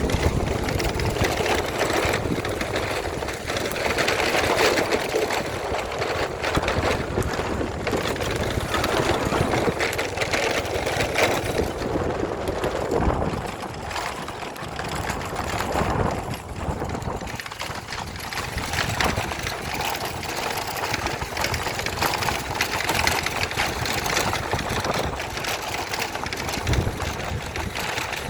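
Heavy rain pouring down in a tremendous downpour: a loud, steady rushing noise that swells and dips.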